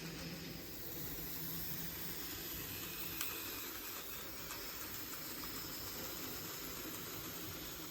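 N gauge model train running on the layout: a faint, steady whir of the small locomotive motor and wheels on the track, with a single click about three seconds in.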